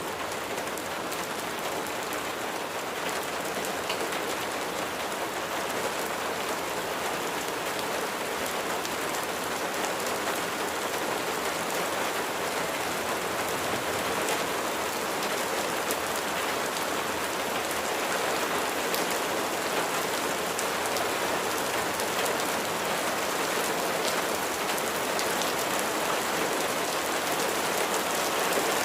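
Steady rain falling, with fine ticks of single drops striking a surface, growing a little louder over the stretch.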